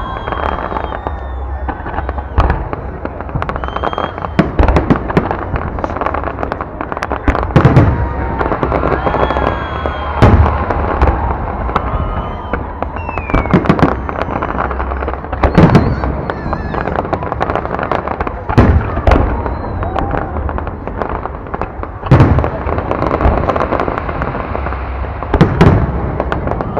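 Fireworks display: aerial shells bursting in a continuous run of bangs and crackles, with about six heavier booms every few seconds standing out above the rest.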